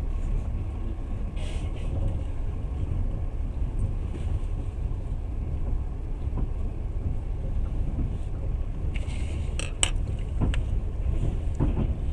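Passenger train running, heard from inside the carriage: a steady low rumble, with a few sharp clicks about ten seconds in.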